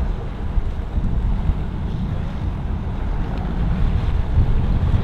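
Wind buffeting the microphone: an irregular low rumble that comes and goes.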